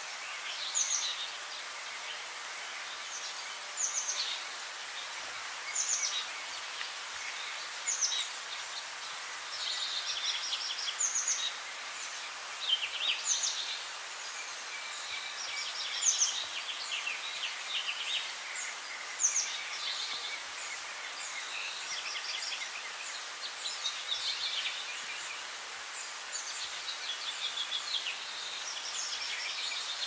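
Wild birds singing: short high chirps and quick sweeping calls every second or two, with rapid trills at times, over a steady background hiss.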